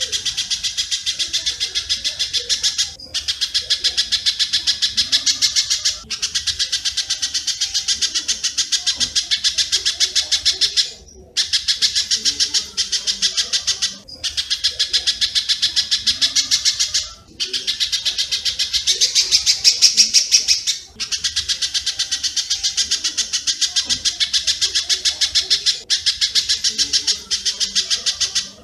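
Rough, densely packed bird chips of a spiderhunter-and-swiftlet training recording, very rapid and even, running in phrases of about three seconds with short breaks between them.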